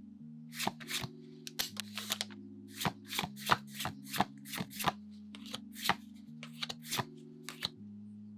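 Pokémon trading cards being slid off one another one at a time, giving quick crisp swishes and snaps, several a second. Soft background music chords sustain underneath.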